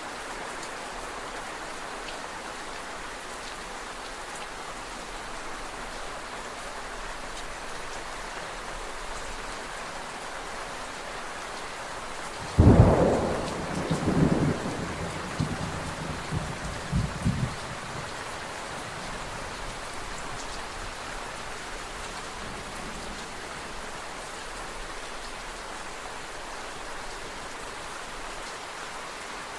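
Steady rain falling, with a sudden clap of thunder about halfway through that rumbles on in a few swells for about five seconds before the rain is left alone again.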